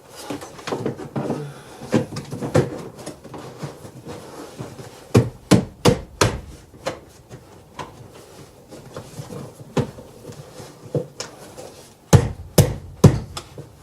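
Plastic knocks, clicks and rubbing as a new air filter in its plastic frame is pushed and worked by hand into the air filter housing, with sharp knocks in a cluster about five seconds in and again near the end.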